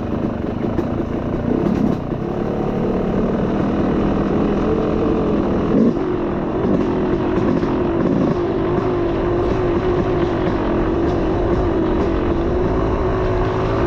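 Dirt bike engine running while riding a trail, the engine pitch changing about two seconds in and again near six seconds in, then holding fairly steady.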